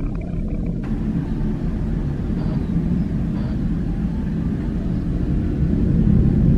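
Jet airliner engines making a steady low rumble that grows a little louder near the end.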